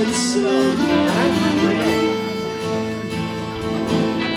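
Live acoustic band playing an instrumental passage, guitar-led with held notes ringing over the strumming.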